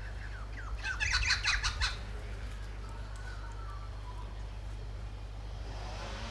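Wild birds calling: a quick burst of rapid, harsh chirps about a second in, then a few faint calls, over a steady low rumble.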